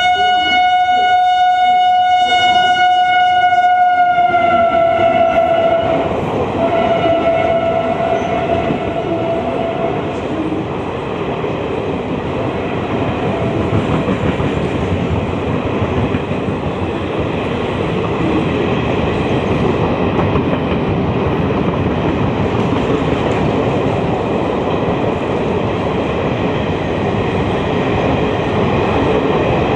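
Indian Railways electric locomotive sounding a long horn blast that drops slightly in pitch as it passes, then a shorter second blast, followed by the steady rumble and clatter of an express train's coaches running through the station at speed without stopping.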